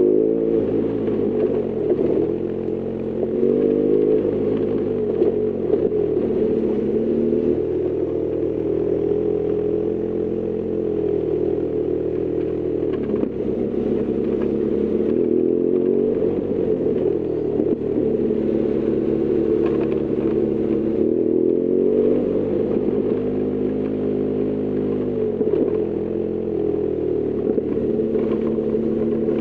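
BMW R1200GS Adventure's boxer-twin engine running under way, its note rising and falling again and again as the rider opens and closes the throttle.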